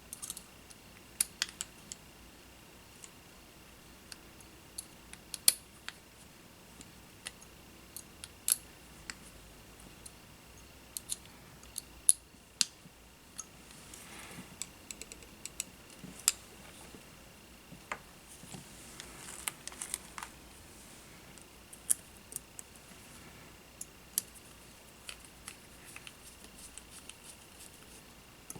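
Small tools and drone-frame parts being handled on a workbench: irregular sharp clicks and taps, with a couple of brief scraping or rustling stretches, over a faint steady high tone.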